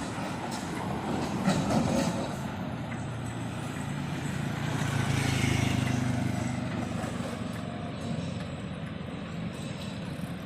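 Road traffic passing close by, with a heavier vehicle's engine hum swelling to its loudest about halfway through and then fading as it goes past.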